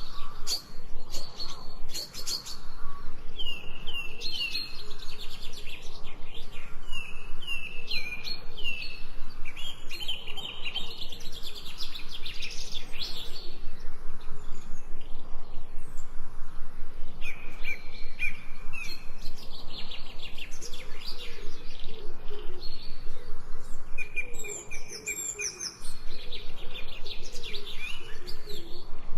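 Songbirds chirping and singing, many short high calls that sweep downward, with a lower call joining in for a few seconds past the middle.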